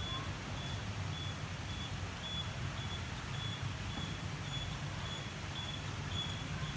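Steady rain over a low rumble, with a short high-pitched beep repeating about twice a second.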